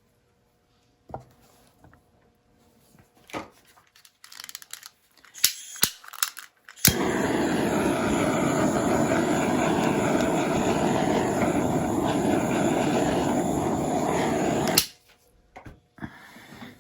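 Hair dryer switched on with a click, running steadily for about eight seconds as it blows the poured paint into a bloom, then switched off with a click. A few light clicks and knocks of handling come before it.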